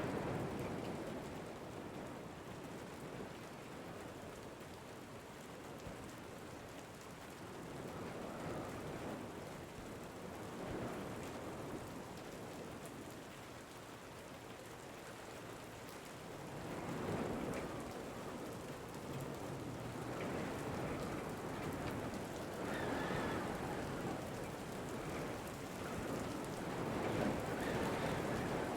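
Steady rain falling with wind, the rush swelling and easing every few seconds.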